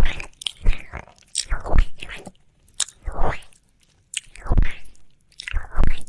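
Wet mouth sounds of ear licking close to a microphone, coming in a string of short bursts with brief pauses between them.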